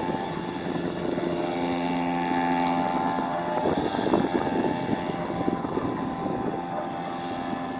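Hangkai 3.5 outboard motor running steadily under load, pushing a small boat against a strong current. Its note shifts slightly about four seconds in.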